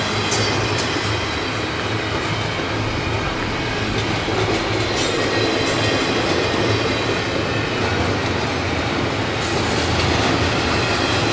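Freight train cars rolling slowly past, a steady rumble of wheels on rail with clicking over the joints and a few short, high wheel squeals.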